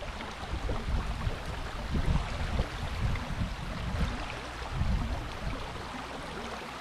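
Wind buffeting the microphone in uneven gusts over the steady rush of creek water.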